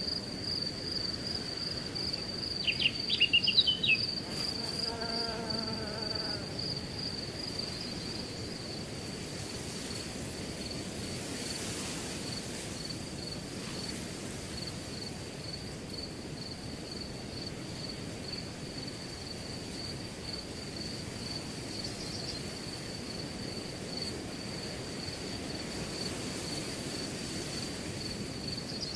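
Crickets chirping in a steady, rapidly pulsed high trill over a soft haze of wind through grass. About three seconds in, a bird gives a quick cluster of high calls, the loudest sound here, then a short lower call.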